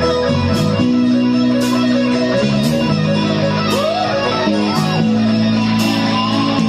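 Live rock band playing an instrumental passage: sustained electric guitar chords, with a bending lead line about four seconds in, and a crisp drum or cymbal hit about once a second.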